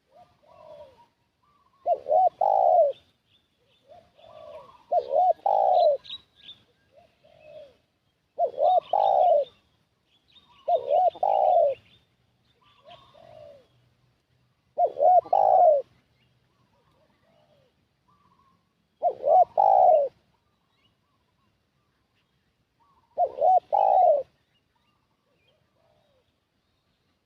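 Spotted dove (tekukur) cooing: seven loud, low coo phrases a few seconds apart, the lure call used to draw in wild doves, with fainter coos in between and thin high chirps of small birds.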